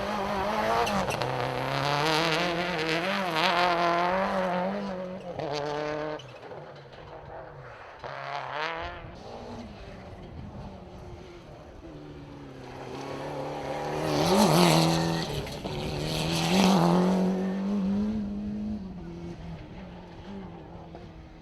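Rally cars driven hard on a stage, engines revving up and falling back through gear changes. There are two loud passes, the first at the start and the second about two-thirds of the way in.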